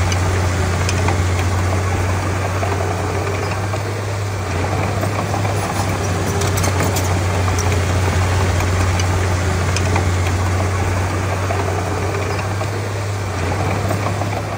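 Heavy diesel earthmoving machinery running steadily, with a constant low engine drone and no change in speed.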